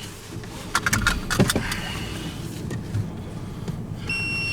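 Inside an ambulance cab with the engine running: a low steady hum with scattered clicks and small rattles, loudest about a second in. Near the end a steady high electronic beep sounds and holds for about a second.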